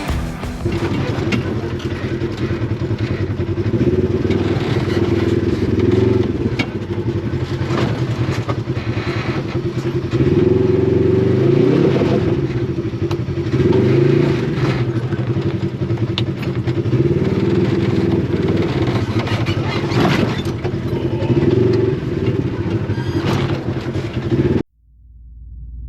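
Polaris RZR side-by-side's twin-cylinder engine running on the trail, the revs rising and falling again and again. The sound cuts off suddenly near the end.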